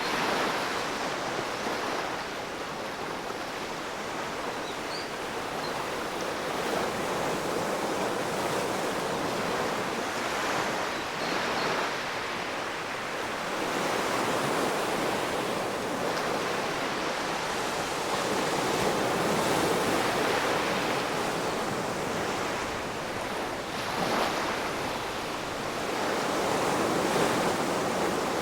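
Ocean waves breaking and washing on the shore, a steady rush that swells and eases every few seconds.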